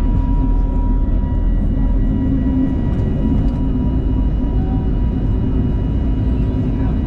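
Airbus A320's jet engines running steadily at high power during takeoff: a loud, even rumble with a steady high tone over it.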